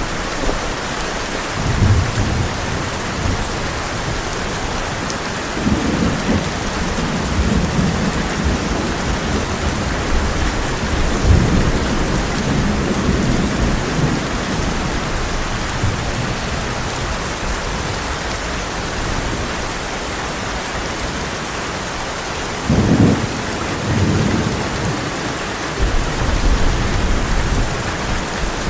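Heavy rain drumming steadily on a tin roof, with rolling thunder rumbling in low swells several times, the strongest cluster about halfway through and more near the end.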